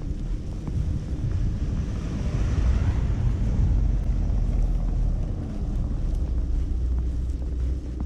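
A vehicle passes on a snowy street, its tyre hiss swelling and fading about two to four seconds in, over a steady low rumble of wind on the microphone.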